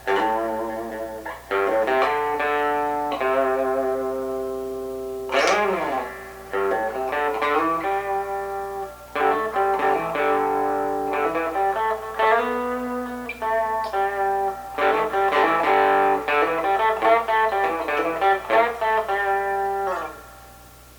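Electric guitar riff on a Fender Stratocaster's bridge single-coil pickup through a little overdrive, with the newly added tone control at about 5 for a warmer sound. Picked notes and ringing chords stop about a second before the end, leaving a faint amp hum.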